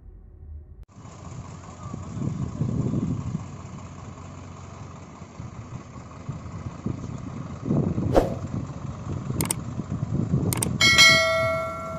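Diesel tractor engine running, rising in louder surges of revving several times. A few sharp clicks sound between about 8 and 11 seconds in, and a steady pitched tone about a second long comes near the end.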